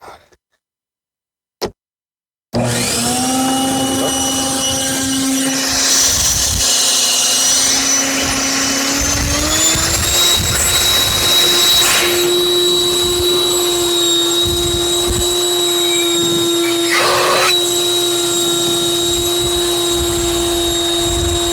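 Leaf blower switching on after a click and then running at full speed with a steady whine that rises in pitch twice as it spins up.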